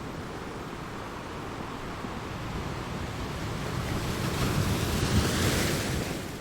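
Ocean waves: a steady wash of surf that swells into a louder breaking wave about five seconds in, then falls away.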